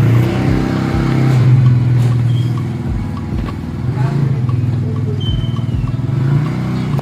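A vehicle engine, started a moment before, idling steadily.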